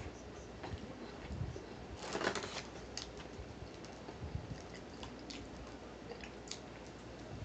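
Chewing a mouthful of Philly cheesesteak sandwich, with scattered small clicks and a brief louder rustle about two seconds in. The sandwich is then handled in its paper wrapper.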